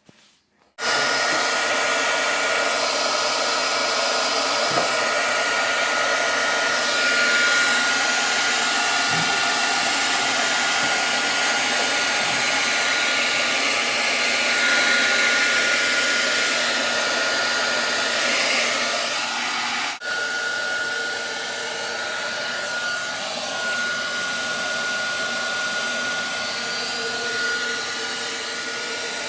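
Electric heat gun switched on about a second in and blowing steadily, a rushing of air with a thin high whine; there is a brief break about twenty seconds in, after which it carries on slightly quieter. It is melting the ice built up over a freezer's clogged defrost drain.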